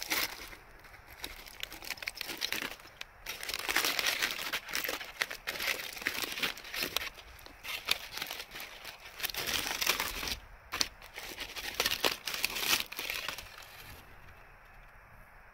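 Irregular crinkling and crumpling, dense with small sharp crackles, heaviest through the middle and easing off near the end.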